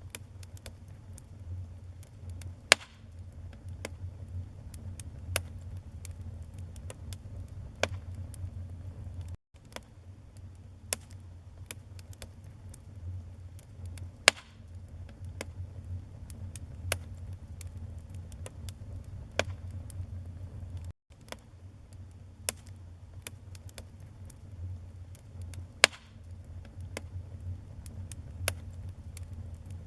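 Wood fire burning in a fireplace: irregular crackles and sharp pops over a low, steady rumble of flames, with three louder pops spaced well apart. The sound cuts out for an instant twice.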